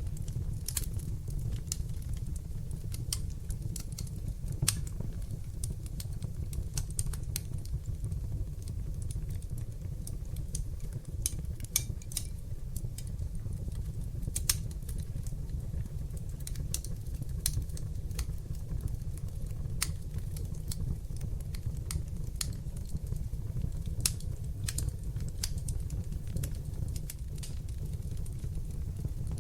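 Fire burning in a fireplace: a steady low rumble of flames with irregular sharp crackles and pops scattered through.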